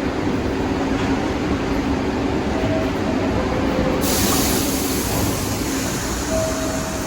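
New York City subway train running with a steady rumble and brief squealing tones from the wheels and motors. A sudden hiss of air starts about four seconds in and continues.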